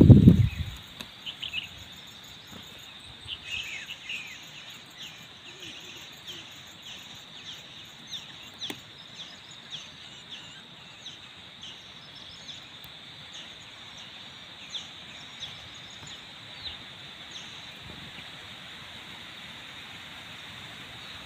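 A brief low thump right at the start, then a steady high insect drone over which a small bird gives short high chirps, about two a second, that die out in the last few seconds.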